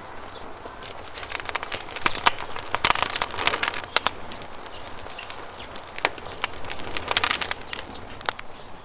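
Wood campfire crackling and popping, with thick flurries of crackles about two to four seconds in and again around seven seconds, over a steady rush of flowing river water.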